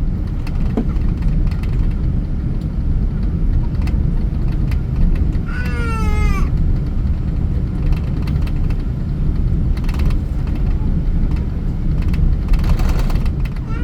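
Steady low roar of a jet airliner heard inside the passenger cabin, with a baby's short wavering cry about six seconds in.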